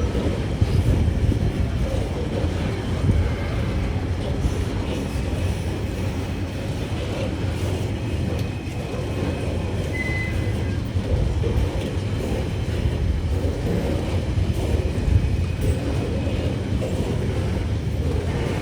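Tasrail freight train rolling past with a steady rumble of wheels on rail.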